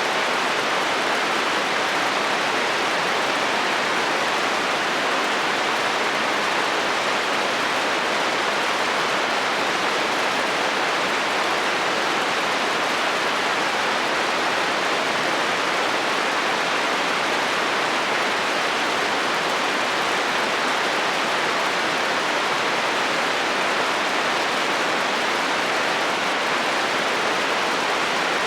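Heavy rain falling on a metal roof: a steady, even hiss with no thunder or separate drops standing out.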